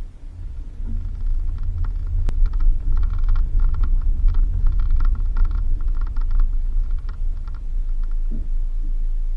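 A Suzuki Jimny driving on a dirt road: a steady low engine and road rumble, with a rapid clattering rattle over the rough surface from about a second and a half in until near the end, and one sharp click about two seconds in.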